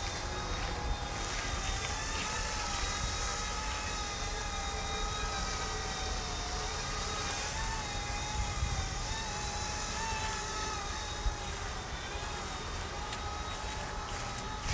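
Eachine E120 RC helicopter in flight, its electric rotor motor giving a steady whine whose pitch wavers slightly with the throttle, over a low rumble of wind on the microphone.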